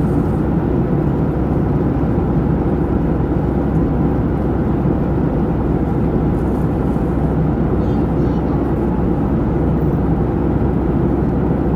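A steady, low vehicle rumble that holds at an even level throughout.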